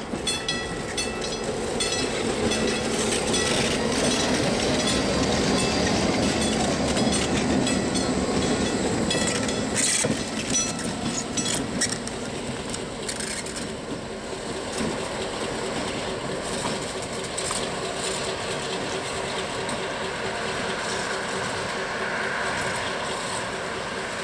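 Passenger cars of a passing train rolling by, their wheels clicking over rail joints, while a grade-crossing bell rings steadily near the start. About twelve seconds in the train has gone by, and the sound drops to a quieter, steady rumble.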